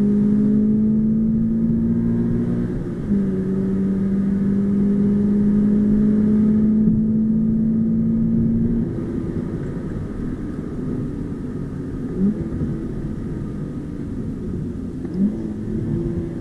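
Subaru BRZ's flat-four engine heard from the cabin, pulling hard with revs rising, then a gear change about three seconds in and a second long rising pull. About nine seconds in the driver lifts off and the engine settles lower and quieter, with two brief rises in revs near the end.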